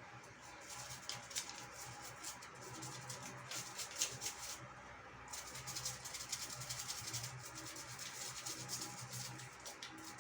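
Toothbrush scrubbing the small lower pulley wheel of a bicycle's rear derailleur with dishwashing-liquid solution, a fast, irregular run of short brushing strokes.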